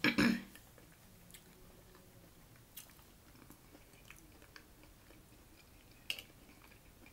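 Soft chewing of taco soup, with a few faint clicks of a metal spoon against a glass bowl, the clearest about six seconds in. A brief loud mouth sound comes at the very start.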